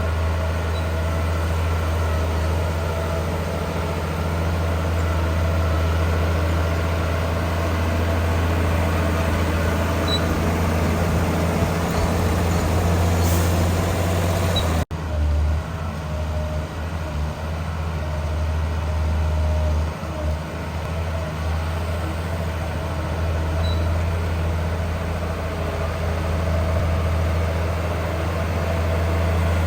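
Heavy diesel engine of earthmoving machinery running steadily with a deep, low drone, broken by a brief gap about halfway through.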